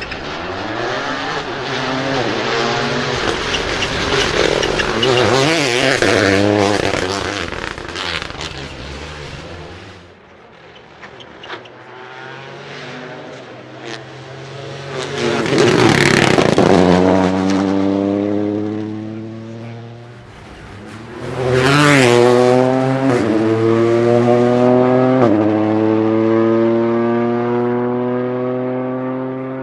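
Toyota GR Yaris Rally2 rally car at full throttle on a stage. Its engine note climbs through the revs, drops sharply at each upshift and passes close and loud twice before fading away.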